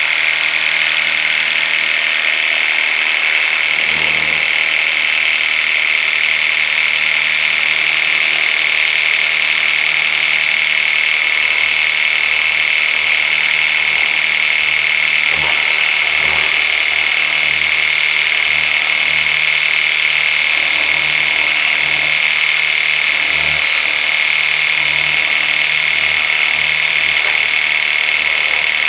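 Worx WG633 Hydroshot brushless cordless pressure washer running without a break, with a steady high-pitched motor whine over the hiss of its water jet. The jet is fired through the 0-degree pinpoint nozzle at a car wheel.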